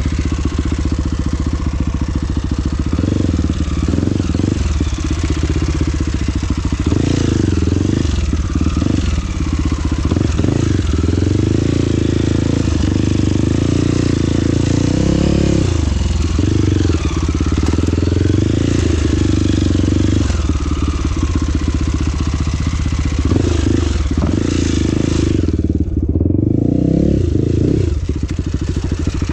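Trail motorcycle engine running under load, its pitch rising and falling again and again as the throttle is opened and eased.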